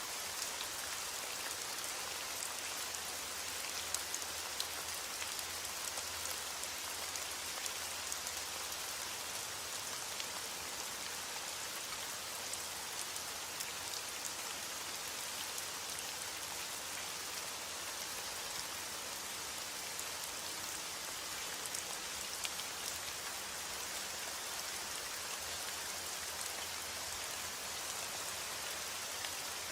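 Steady heavy rain falling, a dense even hiss with many individual drops pattering on a surface.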